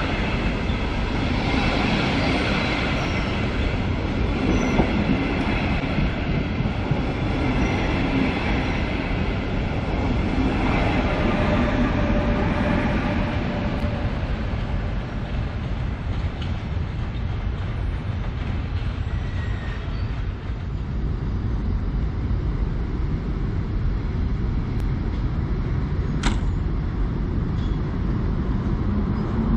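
Electric trains pulling out of a station: a steady rumble of wheels on the track with an electric whine. About two thirds of the way through, the sound changes to another locomotive-hauled train starting off, and a rising whine begins near the end.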